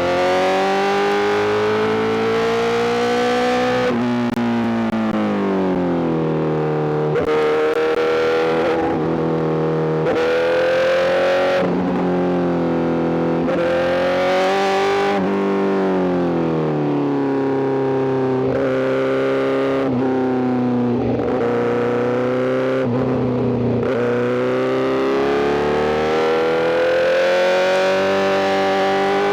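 Honda CBR1000RR-R SP's inline-four engine through a full Arrow GP exhaust, under way: the pitch climbs for a few seconds and then drops sharply, several times over, as the bike accelerates and shifts or rolls off the throttle.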